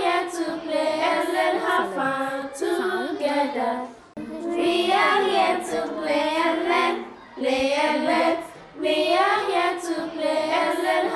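Children singing a theme song together, in sung lines with short breaks between them.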